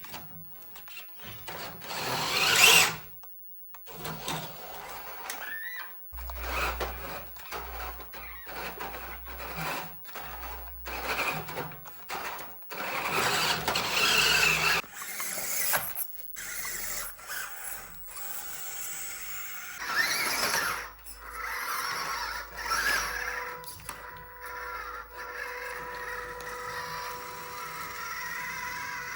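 Small electric motors and gearboxes of remote-control model trucks whining in short, irregular bursts as they are driven over a rough obstacle track. The whine turns steadier in the last several seconds.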